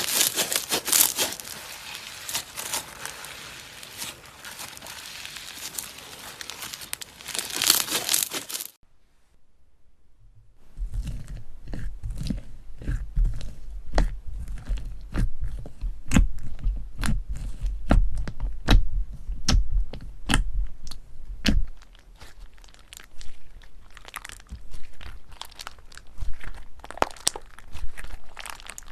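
Slime being squeezed and kneaded by hand, with dense crackling and crunching. After a brief gap about nine seconds in, a string of sharp pops and clicks as the slime is pressed and stretched.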